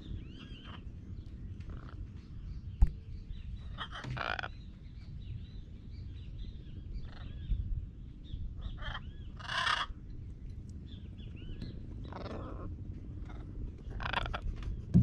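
Repeated short, high, arching chirps from a small animal over a steady low rumble, with several brief rustling bursts and one sharp knock about three seconds in.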